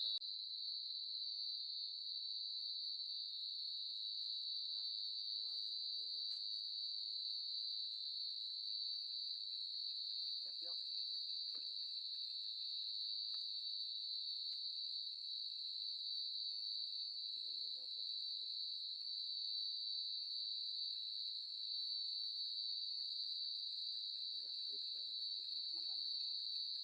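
Steady, unbroken chorus of night insects, a continuous high-pitched trill. Faint distant voices come through under it a few times.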